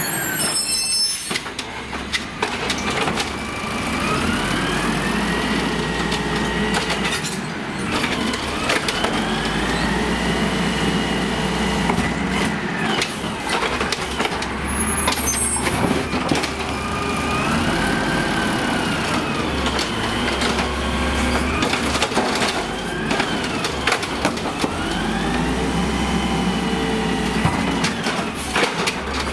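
Amrep automated side-loader garbage truck working, its engine revving up again and again under a rising and falling hydraulic whine, with sharp clanks and knocks in between and the hiss of air brakes.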